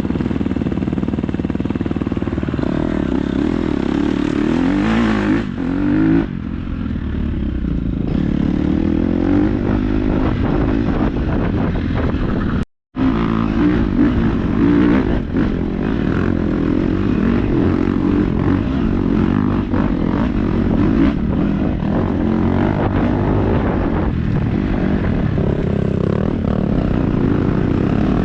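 KTM 250 dirt bike engine running under way on a trail, its pitch rising and falling as the throttle opens and closes. The sound cuts out completely for a split second a little before the middle.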